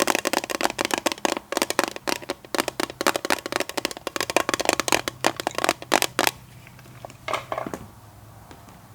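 Rapid tapping on a hard object, many quick taps a second, stopping about six seconds in, then a couple of softer taps over a faint low hum.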